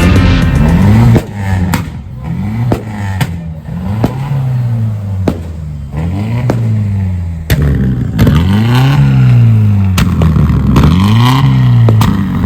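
A car engine being free-revved over and over in short throttle blips: the pitch climbs and drops back about once every second or so, with sharp cracks between the revs.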